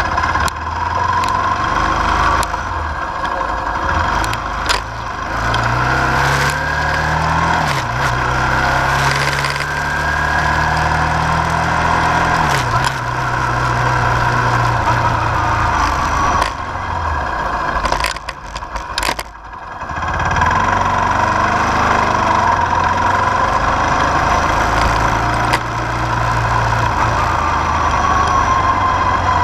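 Car engine running as the car drives, its pitch rising and falling several times, with a short drop in sound about two-thirds of the way through.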